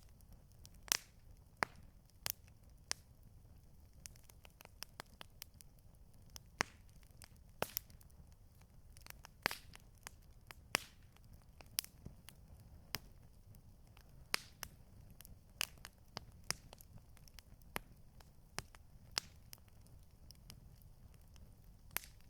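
Campfire crackling: irregular sharp pops and snaps from the burning wood, one to three a second, over a low steady rumble.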